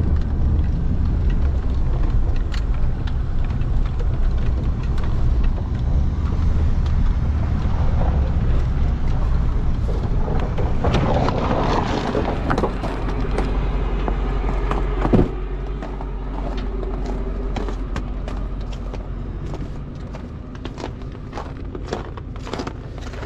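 A motor vehicle's engine running, a steady low rumble with many scattered clicks and knocks over it. A sharp knock comes about fifteen seconds in, after which the rumble is quieter and steadier.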